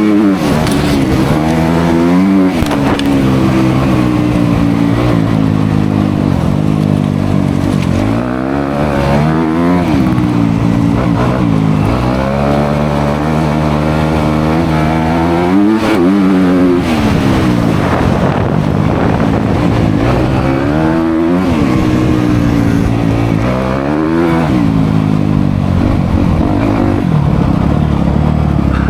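Dirt bike engine running under load, its pitch repeatedly rising as the throttle is opened and dropping back as it is shut off or shifted, several times over.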